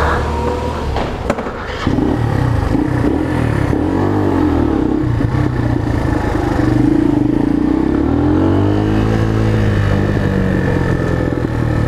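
Chinese motorcycle engine running under way, getting louder about two seconds in, its pitch rising and falling twice as it revs.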